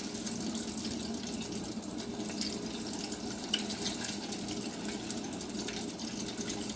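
Kitchen tap running steadily into the sink, with a few small clicks and knocks.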